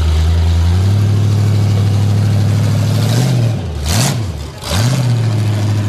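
Loud car engine idling through open exhaust headers, its idle stepping up slightly about a second in. Around four seconds in the pitch dips and picks back up twice before settling.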